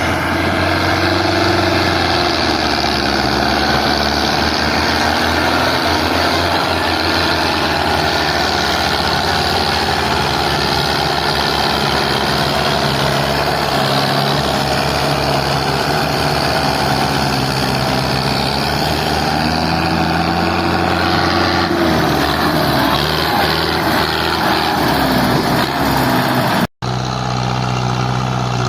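Belarus tractor's diesel engine running hard under load as it hauls a sugarcane-laden trolley, its pitch wavering up and down. Near the end the sound drops out for an instant and comes back as a steadier engine note.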